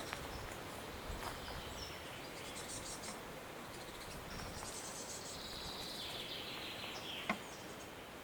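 Wild songbirds singing faintly over a steady background hiss: scattered high chirps and trills, one long song line running through the middle. A few sharp clicks stand out, the loudest a little before the end.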